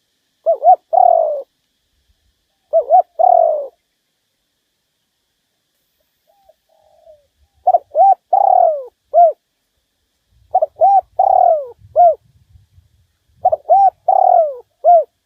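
Spotted dove (Streptopelia chinensis) cooing: five phrases of short, arching coos with a longer drawn-out coo in each, the last three phrases closing with an extra short coo. It is a decoy dove's call, used to draw wild males in to fight.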